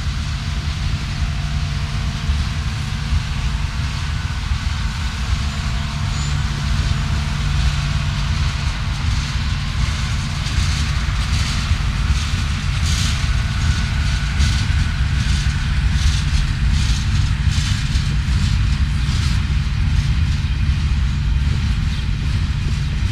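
BNSF freight train on the main line: a steady low diesel-locomotive rumble with a running wheel-and-rail noise, and an irregular clicking clatter of wheels on the rails building up about halfway through.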